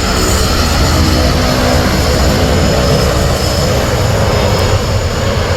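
Aircraft engines running with a loud, steady drone and a constant low hum, unchanging throughout.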